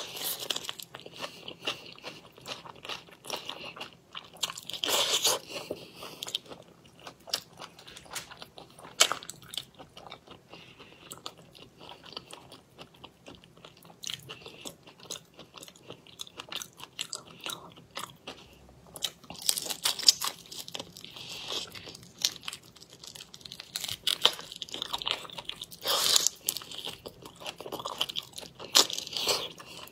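Close-miked biting and chewing of whole raw shrimp, the shells crunching and cracking in irregular bursts between quieter chewing.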